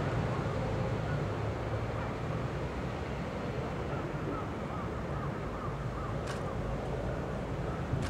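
Steady outdoor background noise with a low, even hum, and a faint short click about six seconds in.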